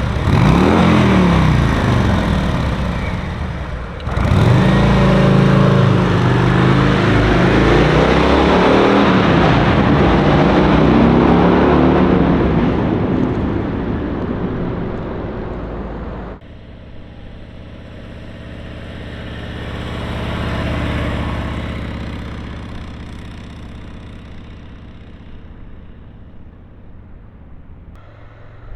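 Harley-Davidson Road Glide's V-twin engine in a series of flybys. First it revs past with its pitch sweeping; then, about four seconds in, a loud hard acceleration. From about sixteen seconds it is quieter, swelling as it passes and then fading away.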